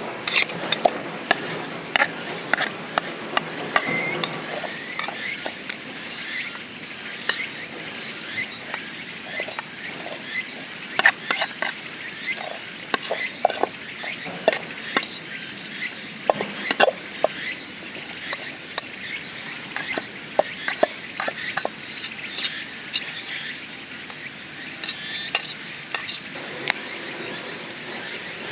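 Meat sizzling in a pan, with many light clicks and scrapes of utensils against the pan throughout.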